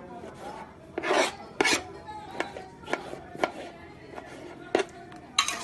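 Irregular scraping and clicking, with two louder scrapes about a second in and another near the end.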